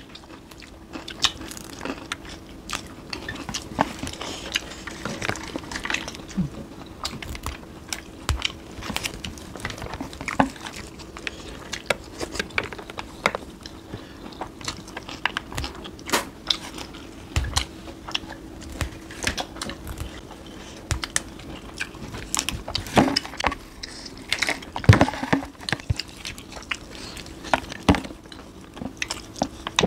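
Close-miked chewing and crunching of food eaten by hand, including fresh raw greens, as many small wet clicks and crunches, with louder crunches around 23 and 25 seconds in. A steady low hum runs underneath.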